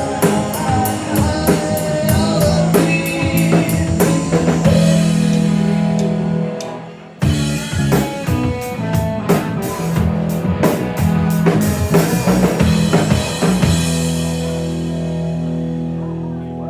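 Live rock band, with drum kit, electric guitar and bass, playing the instrumental close of a song. The playing breaks off briefly about seven seconds in, comes back, and ends on a held chord that slowly fades.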